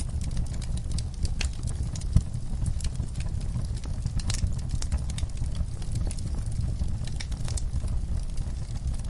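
Wood burning in a fireplace, crackling: irregular sharp pops and snaps over a steady low rumble of the flames, with one louder pop about two seconds in.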